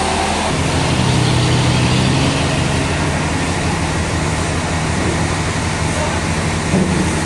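Heavy machinery engine running steadily, its low hum shifting to a new pitch about half a second in.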